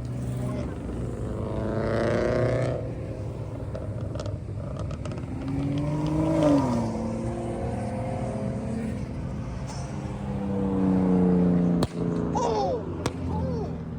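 Car engines revving as they cruise by in traffic, their pitch climbing and dropping with each rev. Two sharp cracks come near the end.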